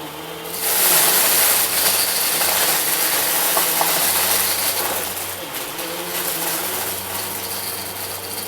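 Vacuum cleaner running and sucking up confetti, with a crunching rush of debris over a steady motor hum, the pickup running freely rather than clogged. It gets louder about half a second in and eases a little after about five seconds.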